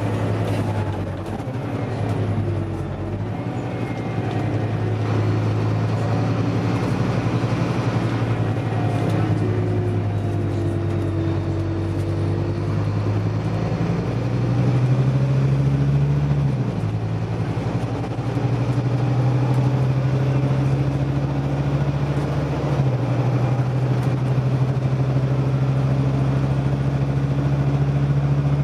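Scania OmniDekka double-decker bus engine running under way. Its note climbs and drops back abruptly twice, about halfway through and again a little later, as the bus changes up a gear, then holds steady at the higher pitch.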